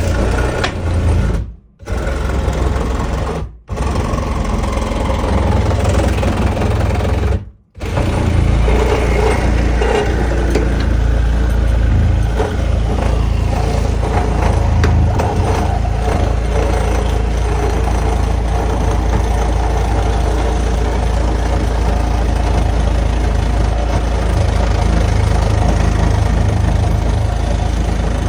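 An engine running steadily, broken by three brief dropouts in the first few seconds.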